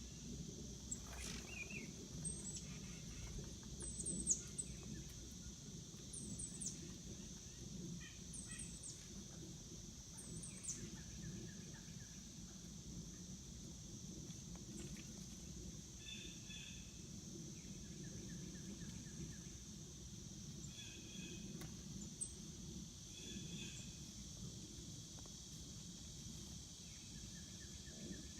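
Outdoor ambience: small birds chirping with many short, high, falling chirps, most in the first third, over a steady high insect drone and a low rumble.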